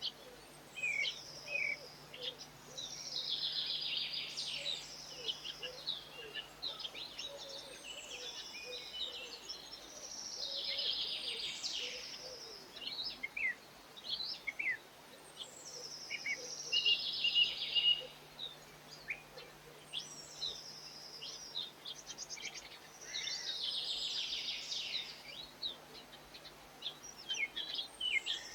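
Birds singing: a song phrase, a high whistle falling into a fast trill, repeats about every six seconds, with scattered short chirps from other birds between.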